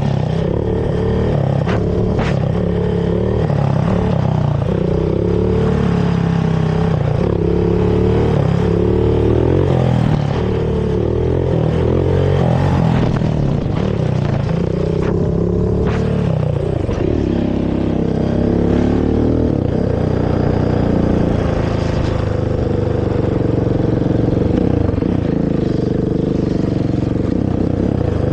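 Honda TRX450 quad's single-cylinder four-stroke engine through its stock exhaust, revving up and down again and again as it is ridden, then running steadier at lower revs for the last third.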